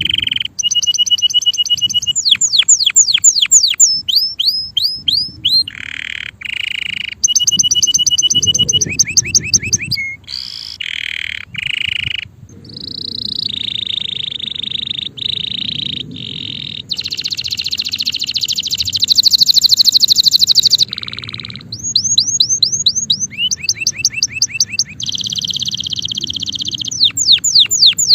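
Male canary singing a long, loud song of rapid trills: runs of quick falling notes, fast repeated chips and long buzzy rolls, one phrase straight after another.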